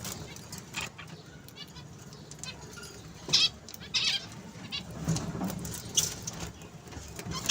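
Pet parrots giving short, scattered calls and squawks, the loudest a little over three seconds in and again around four seconds.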